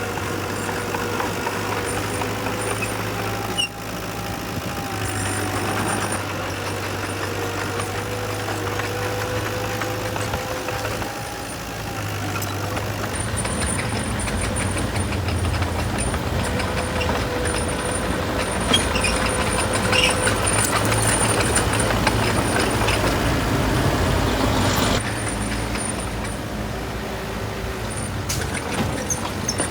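Heavy diesel engine of earthmoving machinery running steadily. It grows louder about halfway through and drops back sharply near the end.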